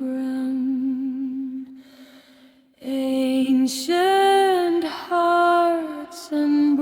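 AI-generated ambient song with a woman's voice singing long, wavering held notes. The voice fades out about two seconds in and comes back with new phrases about a second later.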